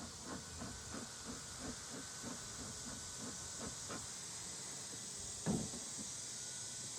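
Steady hiss of an electric fan, with a quick run of soft taps about three a second over the first few seconds and one short louder sound about five and a half seconds in.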